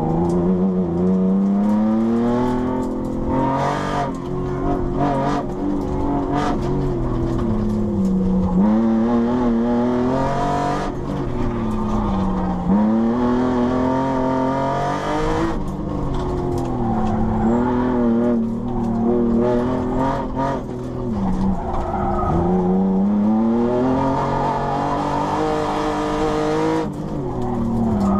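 Ford SVT Contour's cammed 2.5-litre V6, heard from inside the cabin, pulled up through the revs and lifted off again and again, its pitch climbing and dropping every few seconds as the car is driven hard through an autocross course.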